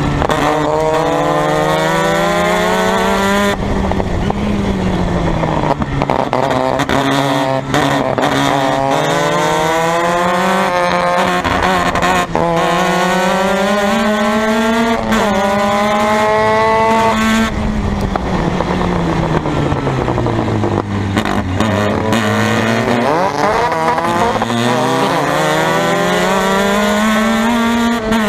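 Formula Mazda race car's rotary engine at racing speed, climbing in pitch through the gears with a sharp drop at each upshift, then falling away about two-thirds through as it slows for a corner, and climbing again near the end.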